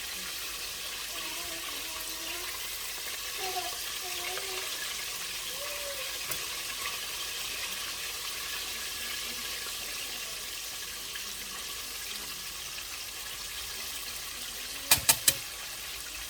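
Chicken wings deep-frying in hot oil in a deep fryer, a steady sizzle throughout. Three quick, sharp clicks come near the end.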